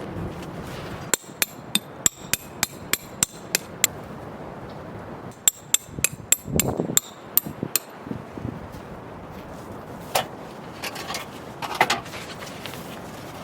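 Hammer driving tent pegs: a run of about ten quick strikes, three or four a second, then a shorter second run, with rustling handling noise after.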